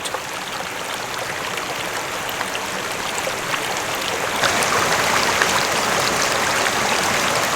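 Steady rush of running water, growing a little louder about halfway through.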